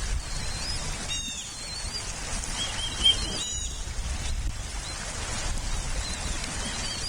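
Bald eagles giving high, thin chirping calls in short bursts, the two strongest about a second and three and a half seconds in, over a low wind rumble.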